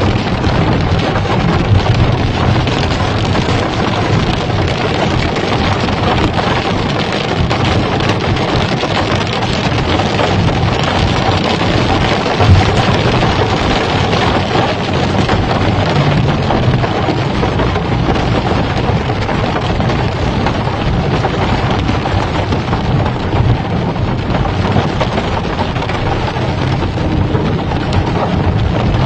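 Heavy rain pouring down steadily: a dense, even hiss with a low rumble underneath.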